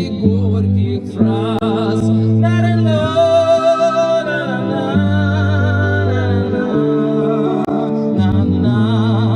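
Man singing with acoustic guitar accompaniment, holding long wavering notes with no clear words.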